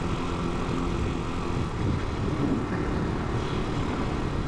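Italika 250 motorcycle engine running at steady speed on the road, with wind and road noise; an even droning note in the first second and a half gives way to a plainer rumble.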